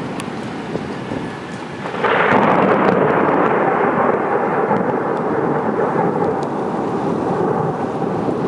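Steady rain, then about two seconds in a thunderclap breaks in loudly and rolls on as a long rumble that slowly fades.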